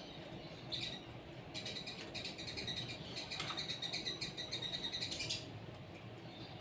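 Small birds chirping: a brief high chirp, then a fast, chattering run of high-pitched chirps lasting a few seconds.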